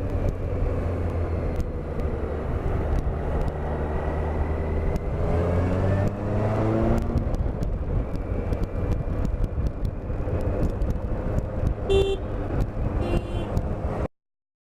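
Motorcycle engine running under way with wind rush, as heard from a helmet camera in traffic; the engine pitch climbs as the bike speeds up midway. Two short beeps sound near the end, and the sound cuts off suddenly.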